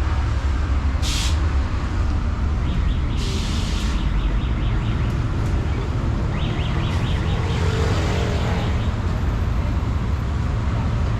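Road traffic with the low, steady rumble of heavy vehicle engines. Two short air hisses cut through, the longer one about three seconds in, typical of a bus or truck air brake.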